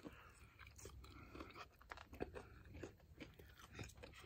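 Faint, close-up chewing of a thick Detroit-style pizza slice: soft crunches and irregular mouth clicks.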